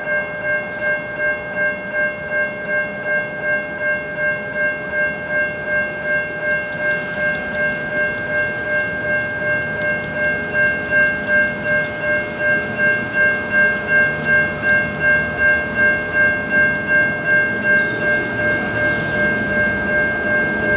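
A bell rings steadily at about two strokes a second while an approaching freight train's low rumble grows louder. Near the end, high-pitched wheel squeal and rail noise start as the train comes in.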